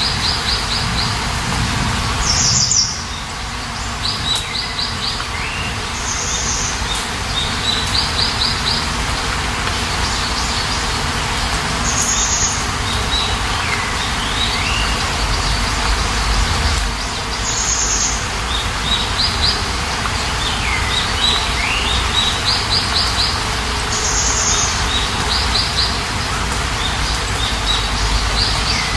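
Steady rain hiss with songbirds chirping over it: a short high call every two to three seconds, quick runs of repeated notes, and falling whistled calls.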